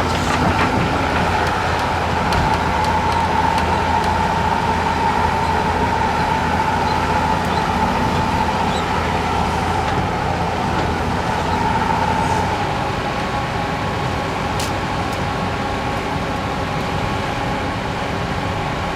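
Heavy earthmoving machine's diesel engine running steadily under load, easing off slightly about two-thirds of the way through.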